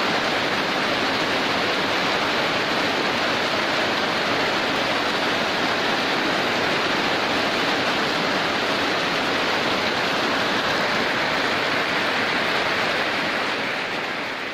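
Heavy rain falling in a steady downpour, beginning to fade out near the end.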